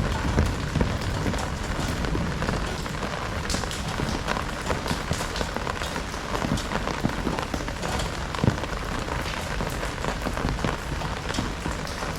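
Heavy rain falling steadily: a dense hiss of rain with many individual drops pattering on surfaces, one sharper drop hit about eight and a half seconds in.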